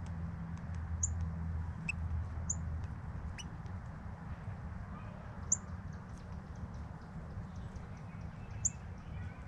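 A bird giving a few short, high chirps a few seconds apart, over a steady background hiss, with a low hum during the first few seconds.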